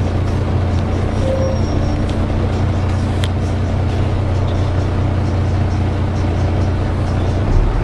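Volvo B7TL double-decker bus's six-cylinder diesel engine running steadily, heard from inside the bus as a steady low drone with a steady hum above it. There is a single sharp click about three seconds in, and the engine note changes near the end.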